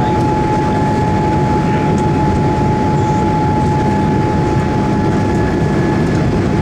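Steady rumbling cabin noise inside a Boeing 787 Dreamliner airliner, engine and airflow noise with a constant high hum running through it.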